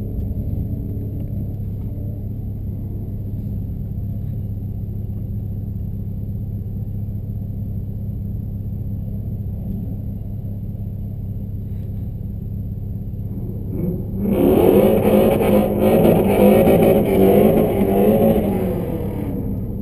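Car engine idling steadily, heard from inside the cabin; about fourteen seconds in, a much louder engine revs up and down repeatedly for about five seconds, then settles back to idle.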